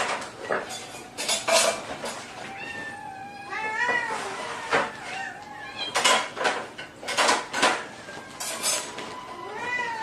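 A domestic cat meowing several times, with sharp clattering knocks in between.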